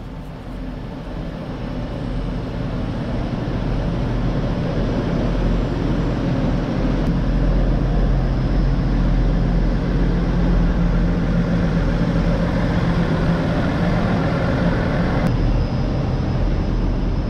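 Diesel railcar train idling at a station platform: its engines and rooftop equipment run steadily as a low hum under a wide hiss that grows louder over the first several seconds. About fifteen seconds in, the sound shifts abruptly and a faint high whine joins.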